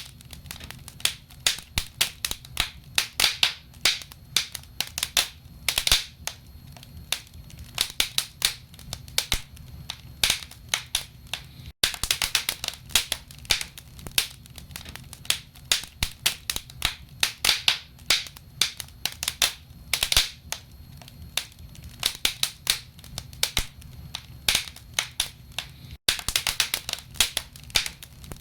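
Wood fire burning in a fireplace, logs crackling with frequent sharp pops and snaps over a steady low rumble.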